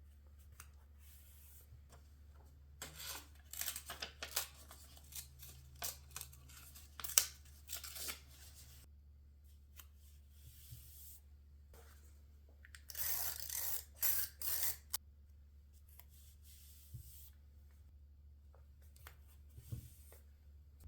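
Paper being torn and cut by hand, in a run of short crisp crackles and snips for several seconds, then a longer continuous stretch of tearing partway through, with a few faint rustles near the end.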